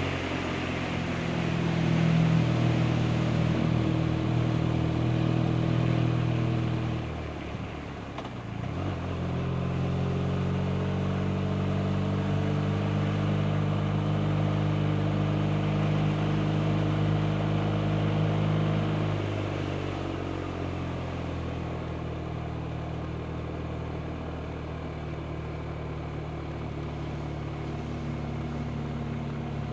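BMW R 1250 RT's flat-twin boxer engine running under way on the motorcycle. About eight seconds in the note drops away briefly and picks up again, as with a gear change, and about twenty seconds in the pitch falls and settles into a lower, quieter steady note as the rider eases off.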